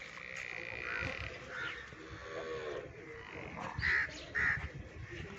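Birds calling in a farmyard: scattered calls, with two loud short calls close together about four seconds in.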